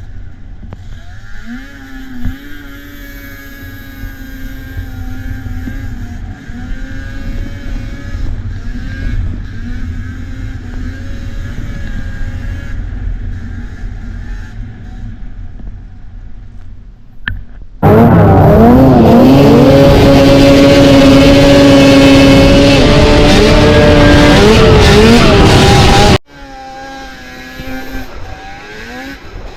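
Vintage two-stroke snowmobile engines running and revving, their pitch rising and falling with the throttle. About two-thirds of the way through, a much louder, close-up engine revving comes in suddenly and cuts off abruptly some eight seconds later.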